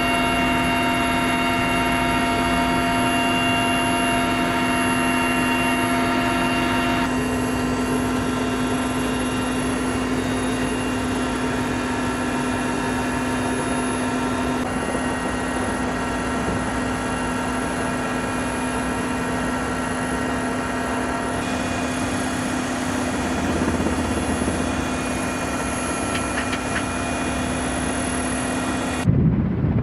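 Helicopter running, a steady whine of several fixed tones over engine noise, with abrupt changes a few times where shots are cut together.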